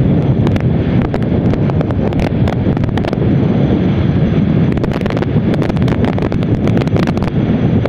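Wind buffeting the microphone of a motorcycle moving at highway speed: a steady loud rush with many sharp crackles, over the low noise of the bike and the road.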